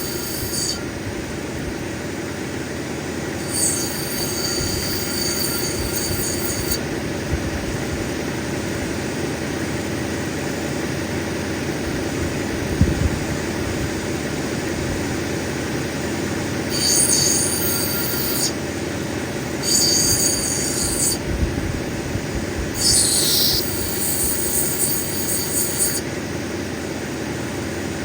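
Cabbing machine running steadily as a black opal nobby is ground on its wheel. Four high-pitched whining stretches of one to three seconds each come and go over it.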